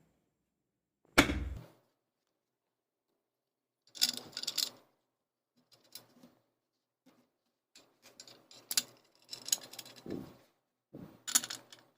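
Metal parts of a ceiling fan clicking and clattering as its top casing is fitted onto the motor and the screws are put in. A sharp knock about a second in, then bursts of small metallic clicks and rattles.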